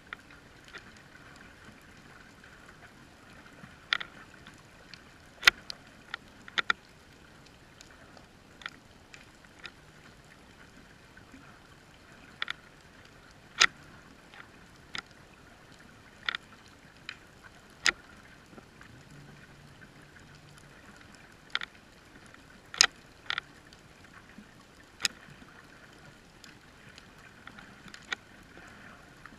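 Underwater sound heard through a GoPro Hero3's waterproof housing: a steady muffled hiss with sharp clicks at irregular intervals, roughly one every second or two.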